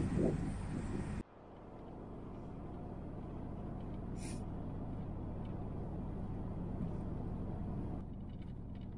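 Road noise from a camper van driving on a wet highway. It cuts off abruptly about a second in and gives way to a quieter low rumble of the van running.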